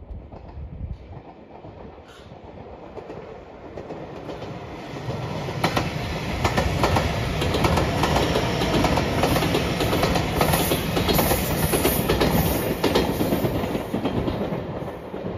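JR Shikoku 8000 series Shiokaze limited express electric train approaching and passing, its wheels clacking rhythmically over the rail joints. The sound builds over the first few seconds, is loudest while the cars go by, and eases slightly near the end.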